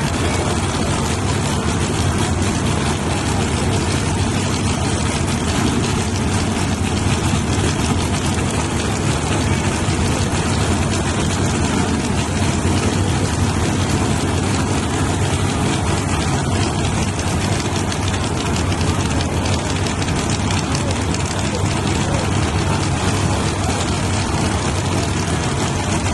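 Car engine idling steadily, holding an even level with no revving.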